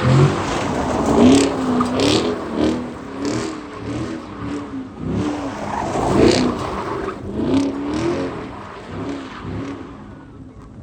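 Chevrolet Camaro's engine revving up and down over and over while the car is slid in circles, with a noisy hiss over the revs; it fades toward the end.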